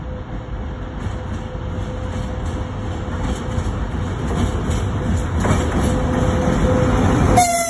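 VL80S electric locomotive hauling a freight train, approaching and drawing level: a rumble that grows steadily louder. A sudden loud tone starts near the end.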